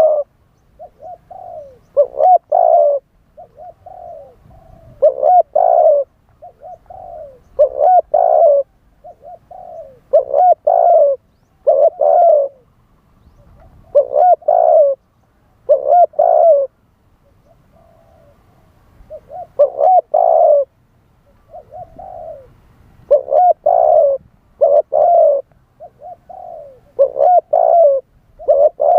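Spotted dove cooing, one short phrase after another about every second or so, with a brief pause about two thirds of the way through.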